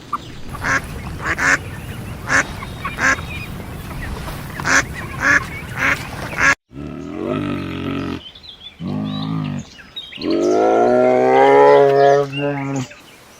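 Animal calls: first a string of short honking calls over a noisy background. After an abrupt cut, three drawn-out pitched calls follow, the last one nearly three seconds long.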